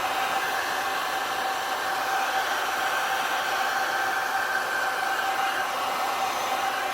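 Heat gun blowing steadily: a constant rush of air with a steady whine.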